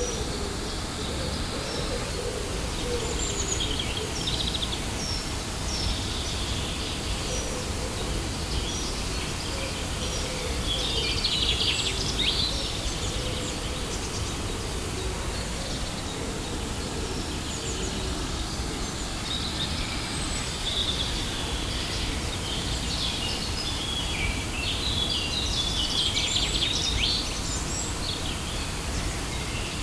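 Steady rush of falling water from a waterfall, with small birds chirping and singing over it, the birdsong busiest about a third of the way in and again near the end.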